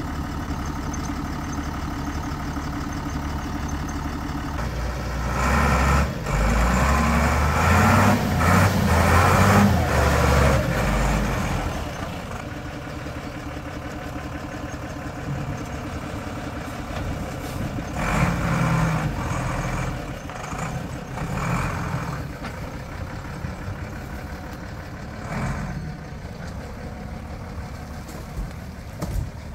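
Car engine idling, then revved hard from about five seconds in for several seconds while the vehicle works its way over rough ground, dropping back to a steady run with a few shorter revs later.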